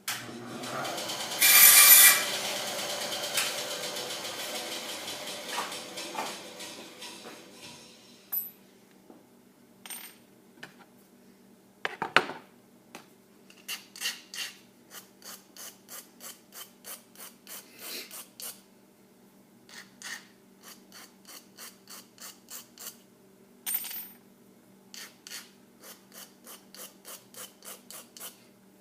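Hand filing of a small model truck part. A long scrape fades out over the first several seconds, then short back-and-forth file strokes come at about two a second, with one sharper scrape in between.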